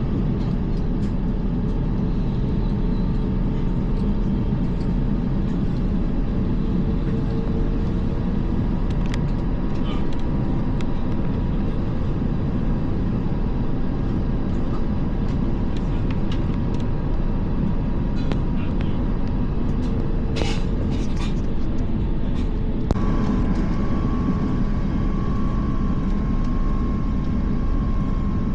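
Steady low rumble inside the cabin of an Airbus A350 airliner, with a faint high whine that steps up in pitch about two-thirds of the way in and a few light clicks shortly before.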